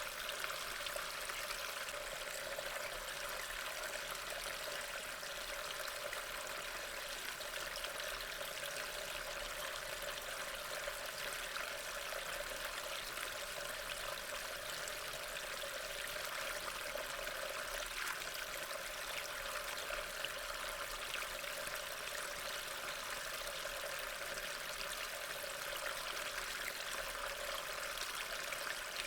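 Steady rain, an even continuous hiss that neither rises nor falls.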